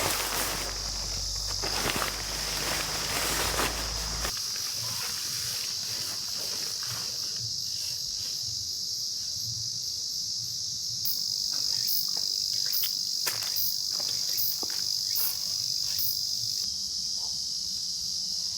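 Steady chorus of summer insects, a continuous high-pitched buzzing trill. Over the first four seconds it is mixed with rustling and crunching, like movement or footsteps on ground litter; after that come scattered short clicks and ticks.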